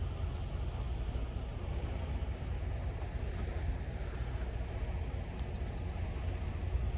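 Vehicle engine running steadily, a constant low rumble.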